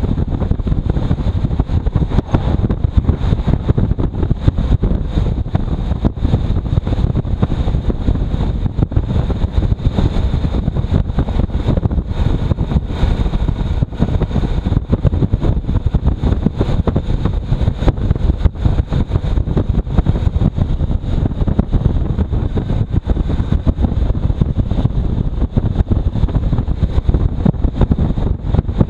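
Loud, gusty wind buffeting the microphone of a moving motorcycle, a dense low rumble of wind and road noise.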